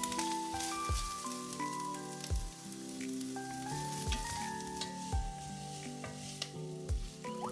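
Food frying and sizzling in a pan, with background music playing over it.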